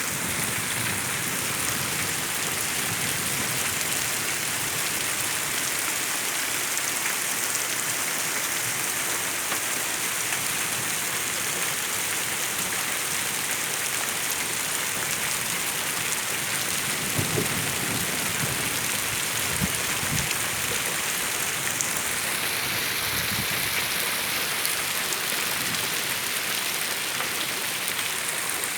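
Steady rain falling, an even hiss of drops striking surfaces. A few soft low knocks sound about two-thirds of the way through.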